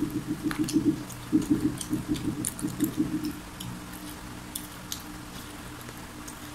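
Close-miked chewing of crispy fried chicken: a rhythmic low chomping about five times a second that stops about three seconds in, with scattered crisp crunches and crackles throughout.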